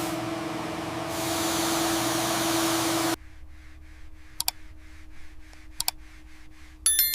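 Degreaser being sprayed: a steady hiss over a low hum that cuts off suddenly about three seconds in. A few faint clicks follow, then a short bright clatter near the end.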